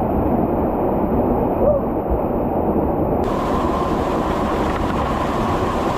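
Steady rushing noise of water in a mountain valley stream, even and unbroken, with most of its weight low and muffled.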